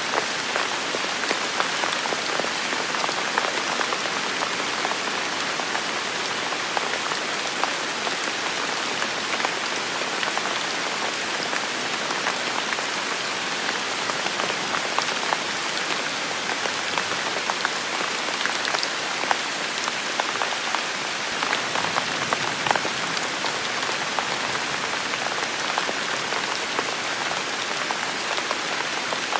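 Heavy, steady rain falling on a forest, a dense hiss with many close drops pattering throughout.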